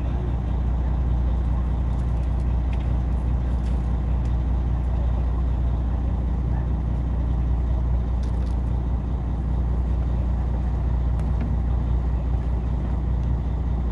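Small fishing boat's engine running steadily, a low even hum, with a few faint clicks over it.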